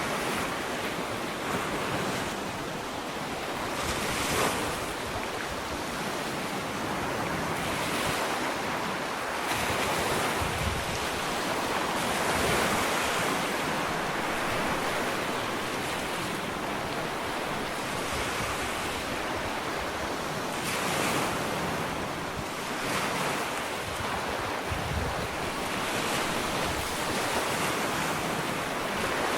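Gentle ocean waves lapping and washing onto a sandy shore, a continuous surf hiss swelling and easing every few seconds.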